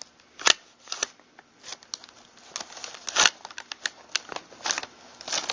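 Pump-action shotgun parts being handled during reassembly: an irregular string of sharp metal clicks and taps, the loudest about half a second in and again about three seconds in.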